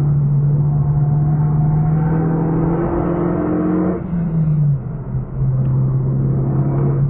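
Renault Megane RS265's turbocharged four-cylinder engine under hard acceleration, heard from inside the cabin, its note climbing steadily. About four seconds in the pitch falls and the sound dips briefly for an upshift, then the engine pulls on in the next gear.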